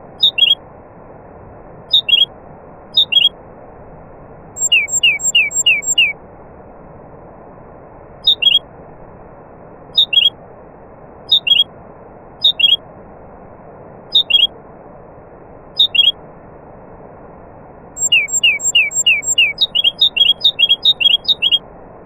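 A songbird calling: short whistled notes that slide down in pitch, given singly or in pairs every second or two, and twice in fast runs of several notes. Under them runs a steady rushing noise.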